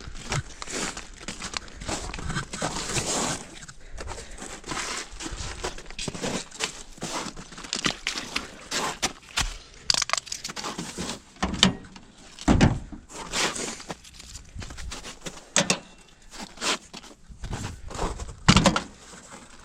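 Irregular clicks, knocks and rustling of things being handled and moved, with no engine running.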